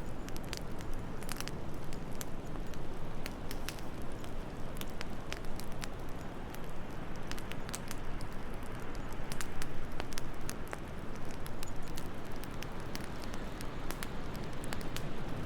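Wood fire in a fireplace crackling, with frequent irregular sharp pops and snaps over a steady low rush of wind.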